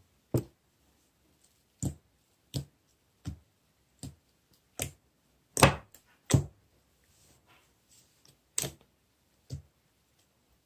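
A series of about ten separate sharp knocks or taps at an uneven pace, with a pause of about two seconds after the middle; the loudest come a little past the middle.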